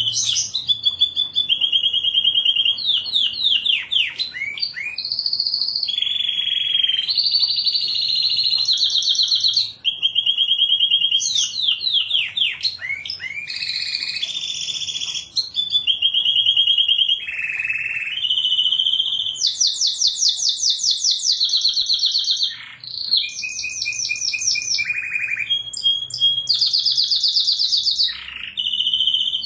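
Domestic canary singing a continuous song: fast trills of one note repeated many times a second, each held for a second or two before switching to a new trill at a different pitch, with quick sweeping notes in between.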